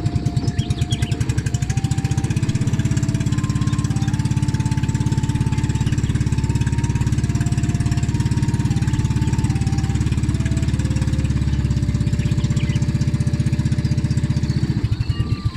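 Small boat engine running steadily with a fast, even pulsing, cutting off near the end.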